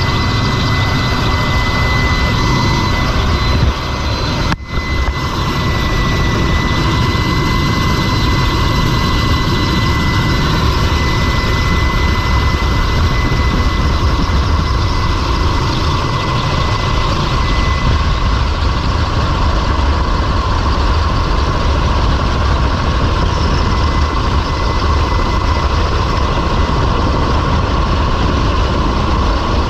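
Rescue helicopter running steadily: a heavy low rumble with a constant high turbine whine, broken by a momentary drop about four and a half seconds in.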